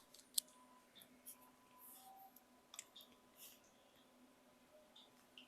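Near silence, with faint scattered clicks and a faint steady hum.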